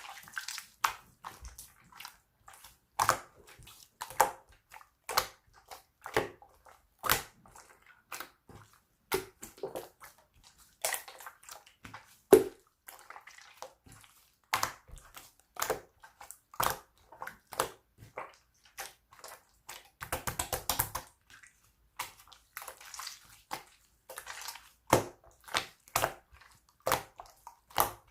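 Light-green and mint slime being pressed, poked and stretched by hand, giving irregular sticky pops and clicks of trapped air, about one or two a second. About twenty seconds in there is a quick run of fine crackles.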